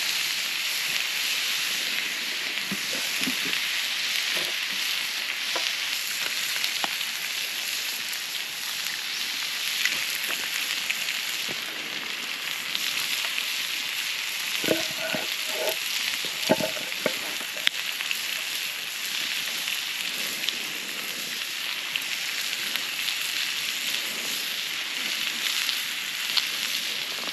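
Burger patties sizzling steadily on a hot barbecue, with a few short clinks about halfway through.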